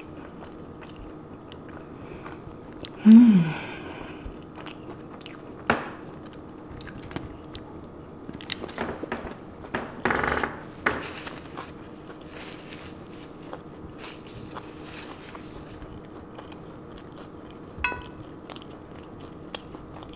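Close-miked chewing and mouth sounds of a person eating a steak and guacamole burrito, with scattered small clicks and crinkles. One louder low sound falls in pitch about three seconds in, and a short noisy burst comes around ten seconds in.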